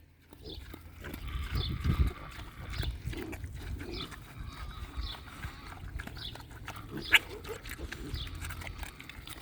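Idaho Pasture Pig piglets grunting and snuffling as they root and eat, with a few short high squeaks and a sharp click about seven seconds in.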